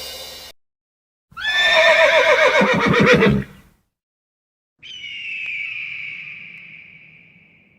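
Horse whinnying, its pitch falling and breaking into a rapid quaver, starting about a second in. A high ringing tone follows and fades out slowly.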